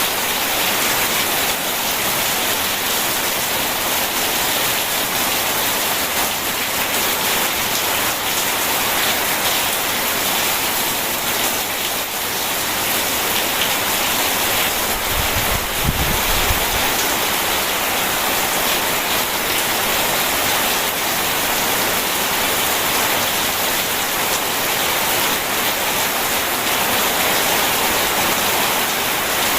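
Heavy rain falling steadily, an even hiss, with a brief low rumble about halfway through.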